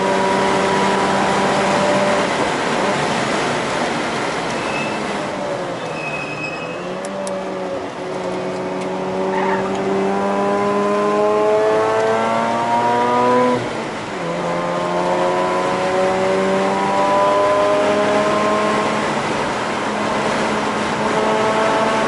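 Mazda RX-8's twin-rotor rotary engine heard from inside the cabin on track, working hard. The revs dip and waver through a corner, then climb steadily through a gear. About 13 to 14 seconds in they drop sharply at an upshift, then climb again and ease off near the end.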